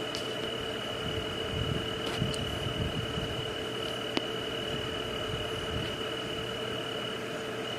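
Night-time nature ambience: a steady high-pitched drone like an insect chorus and a lower steady hum over a soft hiss. A couple of faint clicks come about two and four seconds in.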